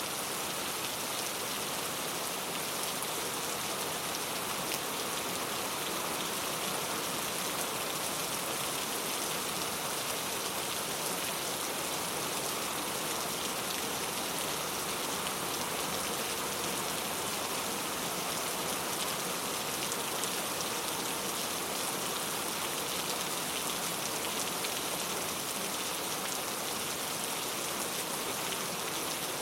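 Heavy rain falling steadily, a dense, even hiss of many drops with no thunder.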